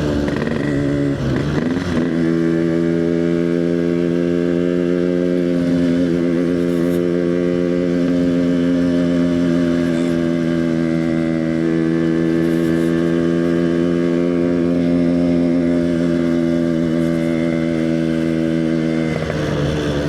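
Yamaha RX-King's two-stroke single-cylinder engine running under way, with its pitch shifting over the first couple of seconds, then holding steady at cruising speed, and dropping briefly near the end.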